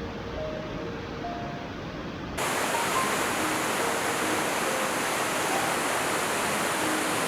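Rushing river water: a steady hiss that turns louder and brighter about two seconds in. Faint music notes sound softly underneath.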